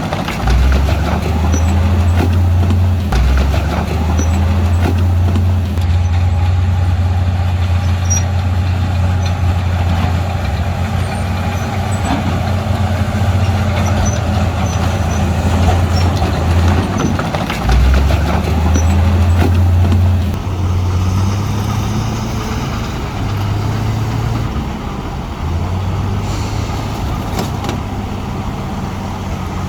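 Heavy diesel engine of an earthmoving machine working, a deep steady drone whose note shifts up and down as the load changes. There are brief dips about three seconds in and about eighteen seconds in, and it runs a little quieter after about twenty seconds.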